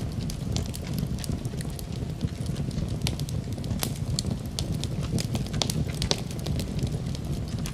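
Wood fire in a fireplace crackling, with sharp irregular pops several times a second over a steady low rumble.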